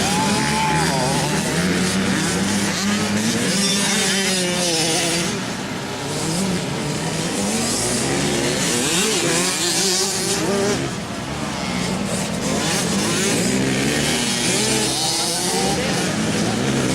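Several motocross dirt bikes racing around the track, their engines revving up and falling back over and over as they shift and take the jumps and turns, several engines overlapping at once.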